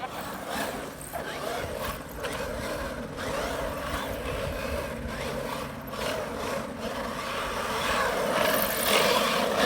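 Traxxas X-Maxx RC monster truck driving under its Hobbywing EZRun 5687 1100kV brushless motor: electric motor and geartrain whine with tyre noise, growing louder near the end as the truck comes closer.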